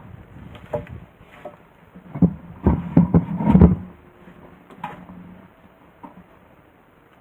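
A string of knocks and clattering that is loudest between about two and four seconds in, over a low hum, then dies away to a faint background near the end.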